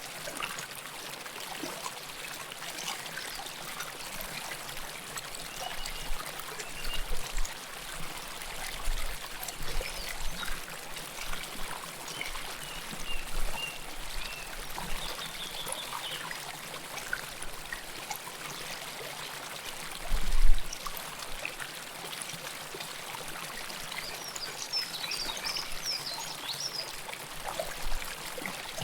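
River water flowing and babbling over stones close to the microphone, a steady rushing trickle. A few brief low thumps come through, the strongest about twenty seconds in, and short high chirps sound now and then.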